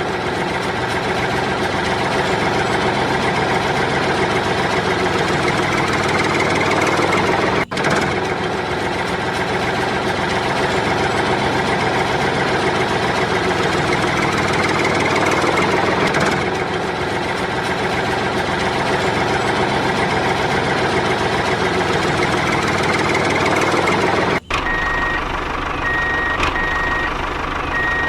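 Steady, loud vehicle engine running, broken twice by sudden short gaps. Near the end a reversing alarm starts beeping at an even pace, about one high beep a second, over the engine.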